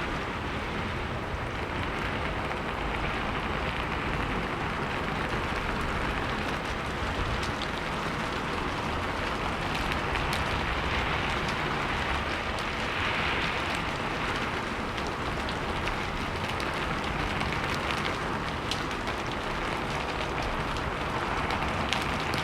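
Steady rain falling, an even hiss with many small scattered drop patters.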